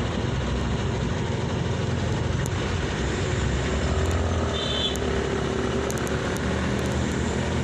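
Motor vehicle running on the road: a steady low engine rumble with road noise. A brief high tone sounds about four and a half seconds in.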